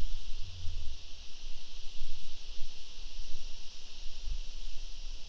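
A steady, shrill chorus of bush insects, with uneven low rumbling of wind buffeting the microphone, strongest in the first second.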